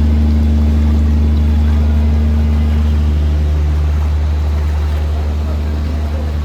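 An engine running steadily close by with a low, even hum, slowly growing fainter from about three seconds in.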